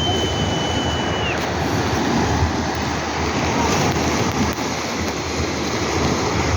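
Sea surf washing in and pulling back as a steady rush of water, with wind buffeting the microphone. A thin, steady high tone sounds for about the first second and a half.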